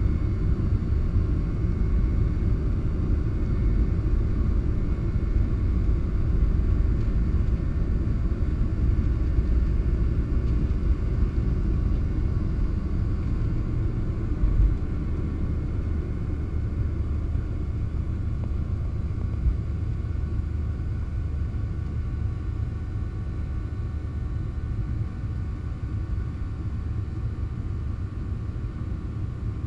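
Steady low rumble of a Boeing 737-700 airliner in flight: its CFM56-7B engines and the airflow. A brief thump comes about halfway through, and the rumble eases slightly after it.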